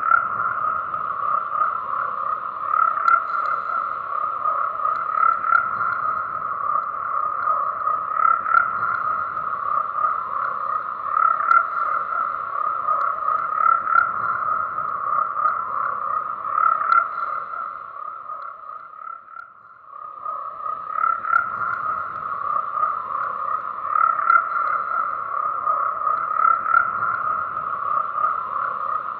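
A chorus of many frogs croaking continuously, swelling in loudness every few seconds. The chorus dies down briefly about two-thirds of the way through, then picks up again.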